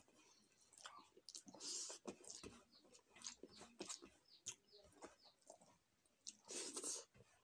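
A person eating rice by hand: wet chewing and mouth clicks, with fingers mixing rice on a steel plate. A short, louder rush of noise comes near the end.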